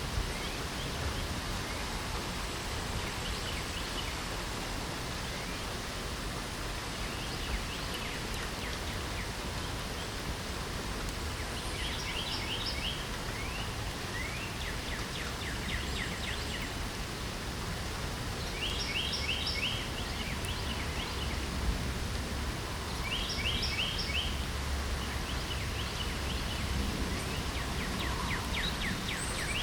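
Steady hiss of rain with songbirds singing over it. The birds give short, rapid trilled phrases, most clearly four times in the second half, with fainter calls in between.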